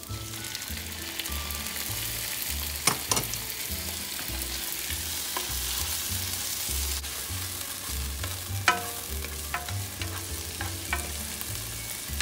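Diced tomatoes frying in hot oil with garlic, onion and ginger in a nonstick skillet: a steady sizzle that comes up as they go in, stirred with a slotted spoon that knocks and scrapes against the pan a few times, loudest about three seconds in and near nine seconds.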